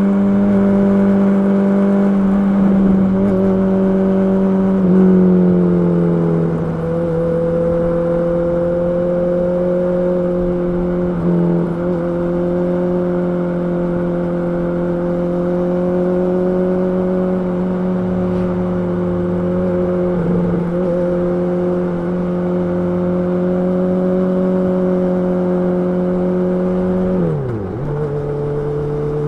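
Honda CB650R's inline-four engine running at a steady, fairly high engine speed, its pitch stepping down about five seconds in and dipping sharply again near the end before settling lower.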